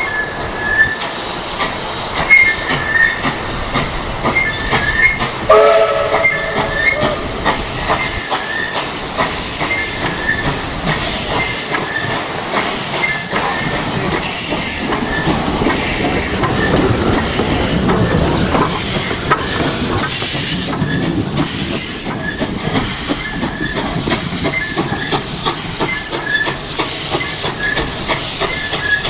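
Steam locomotive running with a steady hiss of steam, sounding a short whistle blast about six seconds in. From about eight seconds on its exhaust chuffs come in a regular beat, roughly once a second.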